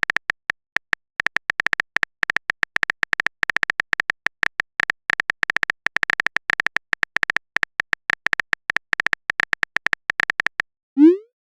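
Phone on-screen keyboard typing clicks, rapid and irregular with a light ringing pitch. Near the end comes a short sound rising quickly in pitch, a message-sent sound.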